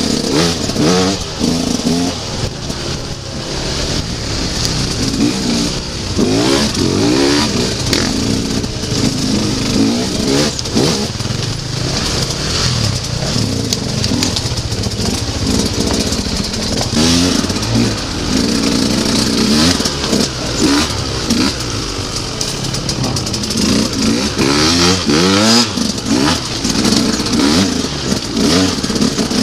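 Dirt bike engine heard from on board, revving up and falling back again and again as the throttle is worked over rough ground, with a steady hiss over it.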